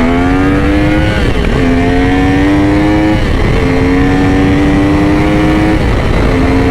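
Yamaha R1 inline-four sport bike engine accelerating hard, its pitch climbing through each gear and dropping at three quick upshifts about two seconds apart, over heavy wind rumble on the microphone.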